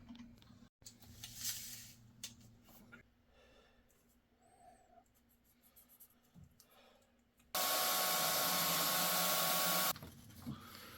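A power tool runs steadily for about two and a half seconds, switching on and off abruptly, after a few seconds of faint handling noises.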